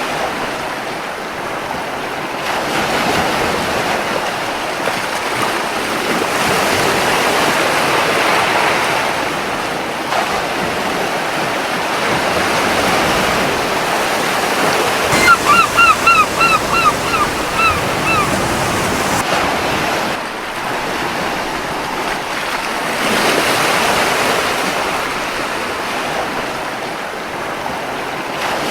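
Ocean surf washing steadily onto a beach, swelling and easing. About halfway through, a seagull gives a quick series of short calls for about three seconds.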